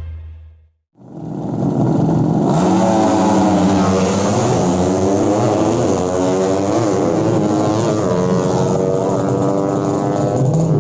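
Music fades out into a brief gap, then drag-racing underbone motorcycles with tuned 200 cc engines rev hard, their pitch sweeping up and down repeatedly.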